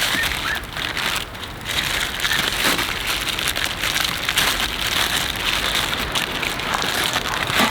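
Heavy rain falling on a tent, a dense, steady crackle of drops.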